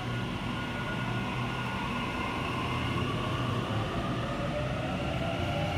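Train running on the rails: a steady rumble with a low hum and a faint whine that rises slightly in pitch toward the end.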